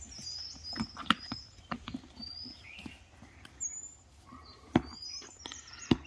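Small birds chirping in short, high whistled notes, with a few sharp knocks, the loudest near the end.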